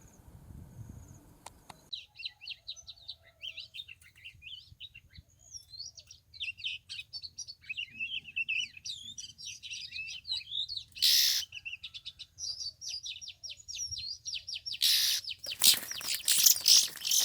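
Oriental magpie-robin singing: a rapid run of varied chirps, whistles and warbled phrases. A loud rustle comes about eleven seconds in, and loud, rapid rustling and fluttering starts near the end.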